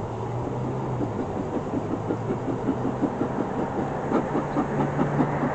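Honeybees buzzing around an open hive: a steady low hum from the colony, with many short wavering buzzes from bees flying close by from about a second in.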